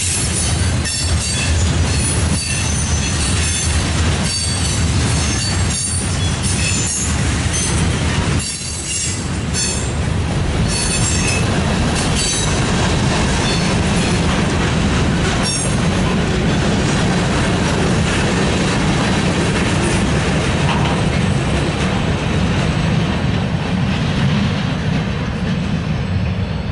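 A Norfolk Southern freight train's gondolas and covered hoppers rolling past close by with a heavy rumble. The steel wheels click over rail joints in the first half, then the sound settles into a steadier rumble.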